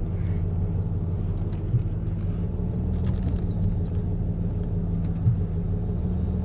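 A vehicle engine idling steadily, an even low hum with a few faint clicks over it.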